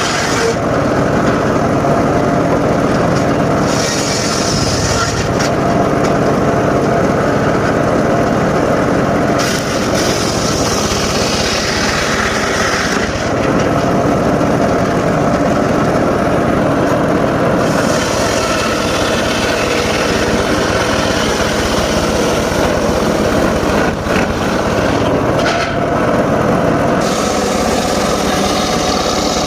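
Homemade engine-driven circular saw running steadily, its blade cutting mahogany, with a higher-pitched whine that comes and goes several times as the blade bites into the wood and runs free.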